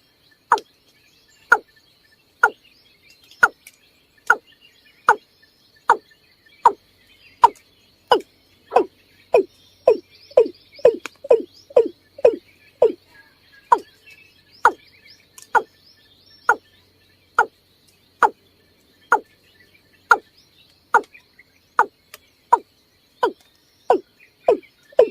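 Male watercock calling: a long series of short notes, each falling in pitch, about one a second, quickening to about two a second midway through and then slowing again.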